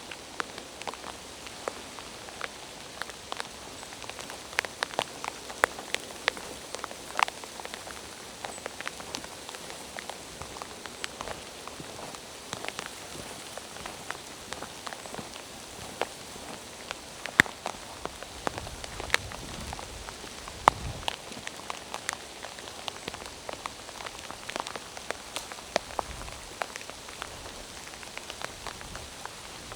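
Steady rain falling through forest, with many sharp, irregular taps of drops striking nearby surfaces. A few low thuds come past the middle.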